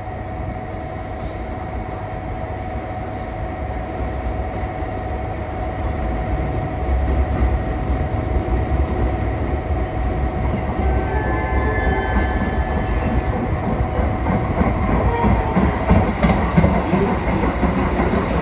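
JR 415 series four-car electric train arriving at a station platform, its rumble and wheel clatter growing steadily louder as it draws in and passes close by. A few short high squeals come from the wheels or brakes about two-thirds of the way through.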